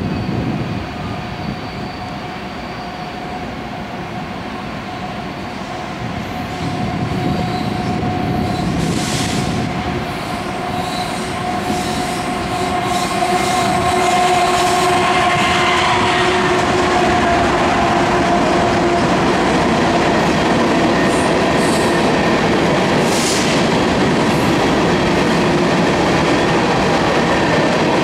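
A BNSF freight train led by two diesel locomotives approaches and passes. The locomotives' engine drone grows louder and drops in pitch as they go by, about halfway through. A long string of covered hopper cars follows, rolling by with steady wheel and rail noise and a few brief high wheel squeals.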